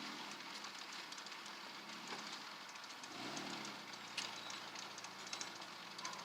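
Ice-storm precipitation falling on surfaces: a steady hiss scattered with many small sharp ticks, with a brief low hum about three seconds in.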